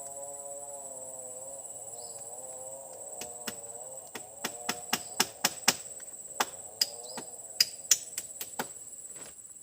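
Steady high-pitched drone of insects, with a lower wavering call running under it. From about three seconds in, a dozen or so sharp, irregular clicks or knocks sound over it, the loudest of them near the middle and toward the end.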